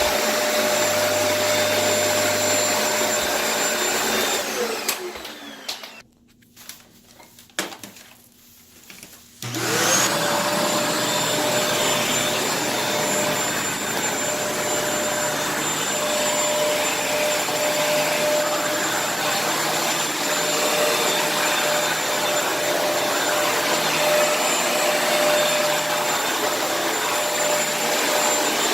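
Kenmore vacuum cleaner running with a steady whine, switched off about four to five seconds in so that its motor winds down, a few knocks during the brief quiet, then switched back on about ten seconds in, its motor quickly spinning back up to the same steady whine.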